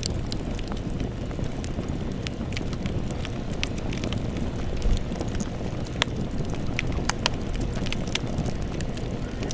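Campfire burning with a steady low rush of flames, wood crackling and popping irregularly throughout, a few louder pops about five, six and seven seconds in.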